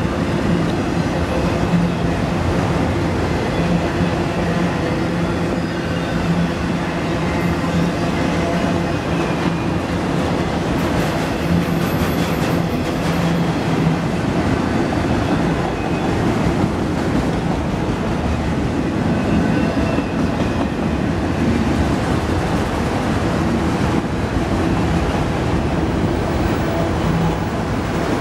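Enclosed autorack freight cars of a CN train rolling past at track level: a steady rumble of steel wheels on the rails, even in loudness throughout.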